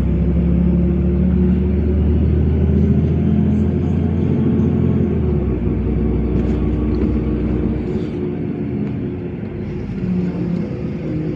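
LiAZ 5292.65 city bus heard from inside while driving: a steady low engine and drivetrain rumble with a hum. The deepest part of the rumble drops away about five seconds in, and again about eight seconds in.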